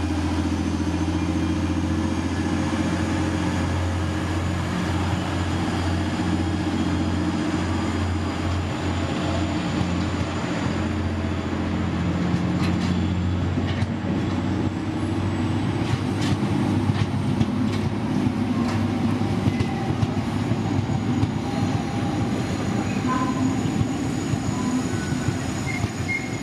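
Freight train of loaded bogie tank wagons rolling past close by: a steady rumble of wheels on rail. A low hum fades out after about fourteen seconds, and from about twelve seconds in come scattered clicks and knocks, with a few faint wheel squeals near the end.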